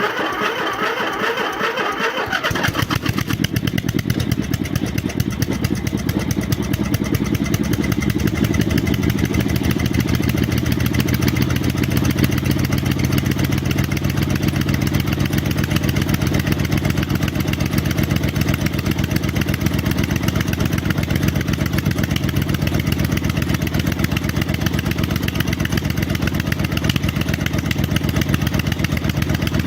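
MTD snowblower's small engine just after catching on a cold start, with a higher-pitched clatter for the first two seconds or so, then running steadily.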